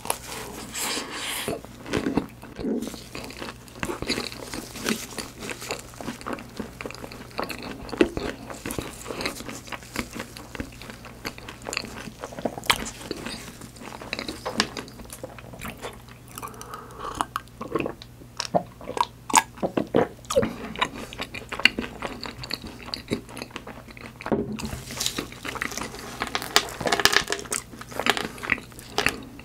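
A person biting and chewing profiteroles topped with white chocolate, chocolate chips and sliced almonds: many irregular crisp crunches and clicks mixed with chewing.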